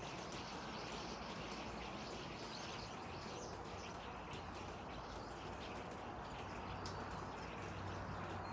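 Birds chirping, with many short high calls coming and going over a steady background hiss.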